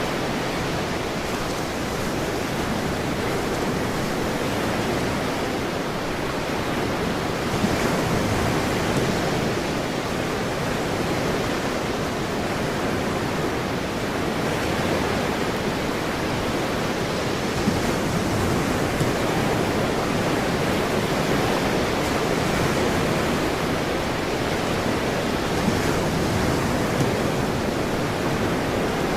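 Ocean surf: a steady rush of breaking waves that swells about every eight to ten seconds.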